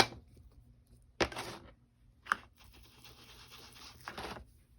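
Ink blending tool scratching and rubbing Distress Oxide ink through a stencil onto cardstock, with two short knocks about a second and two seconds in before a steadier stretch of rubbing.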